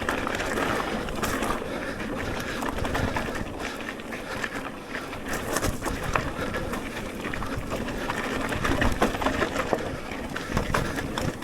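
Electric mountain bike riding over rough singletrack: tyre noise and wind on the microphone, with frequent knocks and rattles as the bike runs over roots and bumps.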